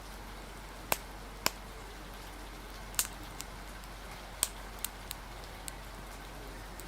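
Steady hiss of rain and wind with irregular sharp pops and crackles from a wood fire, eight or so in a few seconds.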